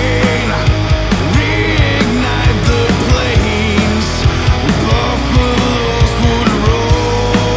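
Grunge-tinged hard rock song from a full band, with drums hitting a steady, even beat under pitched melody lines.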